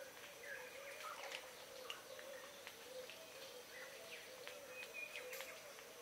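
Faint birdsong: a steady run of low, arching notes repeating several times a second, overlaid with scattered higher chirps and short clicks.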